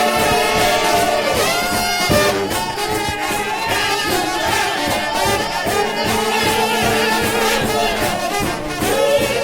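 Trombone shout band playing a fast shout number: massed trombones holding and sliding between notes over a steady drum beat.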